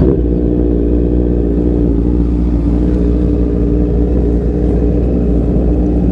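Motorcycle engine running at a steady pitch while riding, over a constant low rumble.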